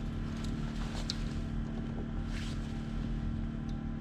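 An engine running steadily at a constant speed, a low even hum, with a few faint clicks over it.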